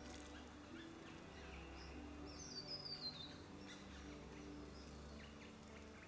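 Small birds calling faintly: scattered high chirps, and a quick run of descending notes about two and a half seconds in, over a low steady hum.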